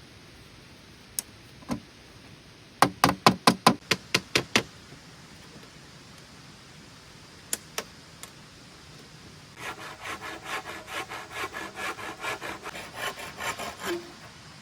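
Hand saw cutting wood: a few sharp knocks, a quick run of about eight loud strokes, then steady back-and-forth sawing at about four strokes a second for several seconds near the end.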